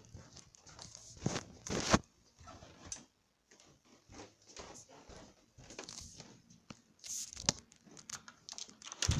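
Handling noise from a tablet being carried around: irregular rustles and knocks, with a few louder thumps.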